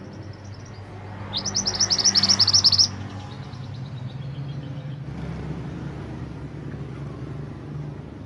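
A mantenan gunung songbird sings a fast, loud trill of rapid high chirps about a second in, lasting about a second and a half, with softer chirps just before and after it. A low steady engine drone runs underneath.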